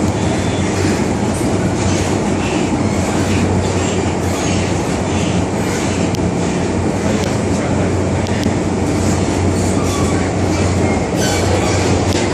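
MTR Island Line electric train running steadily, heard from inside the carriage: a continuous rumble of wheels on rail over a steady low hum.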